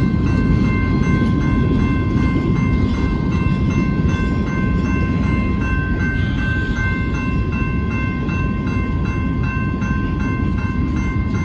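Freight cars of a BNSF rock train rolling past with a steady low rumble. The grade-crossing warning bell rings over it in quick, evenly repeated strokes.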